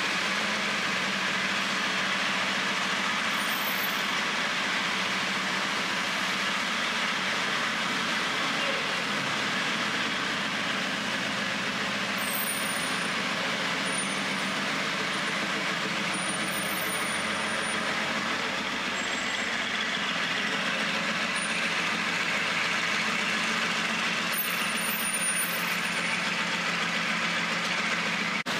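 Mercedes-AMG GT's twin-turbo V8 idling steadily, without revs, over constant traffic noise.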